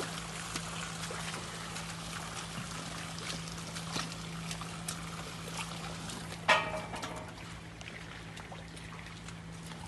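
Heavy rain falling, with water pouring and trickling and scattered drops ticking, over a steady low hum. About six and a half seconds in, one short, loud call cuts through.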